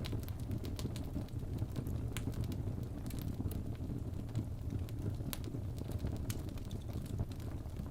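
Fire burning in a fireplace: a steady low rumble of flame with scattered sharp crackles and pops, a couple of them louder than the rest.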